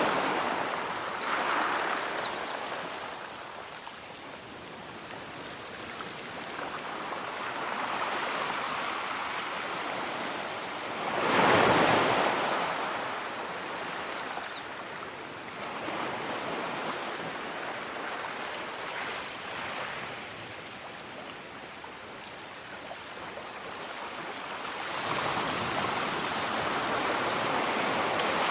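Ocean waves breaking and washing up the shore, swelling and ebbing in slow surges. The loudest wave crashes about twelve seconds in, and another swell builds near the end.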